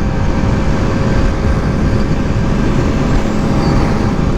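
Motorcycle riding at speed: heavy wind buffeting on the rider's microphone over a steady engine drone.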